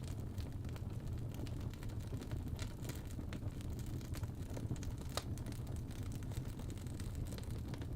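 Wood logs burning in a fireplace: a steady low rumble of the flames with scattered sharp crackles and pops, one clearer pop about five seconds in.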